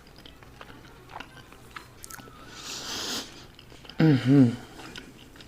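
Close-up mouth sounds of someone eating grits with sausage and eggs: soft, wet chewing clicks, a breathy rush about two and a half seconds in, and a short hummed "mm-mm" about four seconds in.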